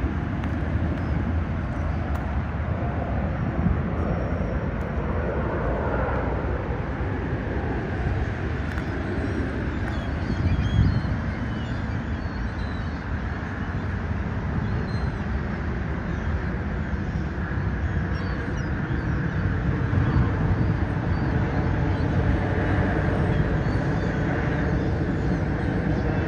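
Steady low rumble of distant engine noise, with faint gull calls now and then.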